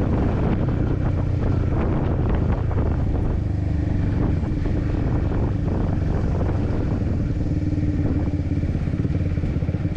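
Honda CBR150R's single-cylinder four-stroke engine running steadily under way on a ride.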